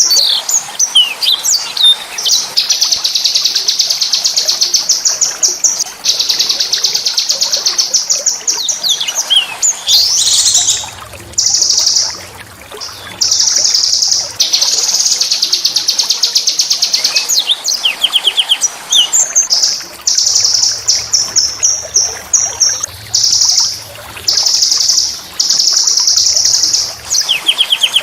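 Small songbird singing long, very rapid high-pitched trills, each held for one to three seconds, broken up by short sharp whistled notes and brief gaps; the rough rolling song used as tutor song for songbirds.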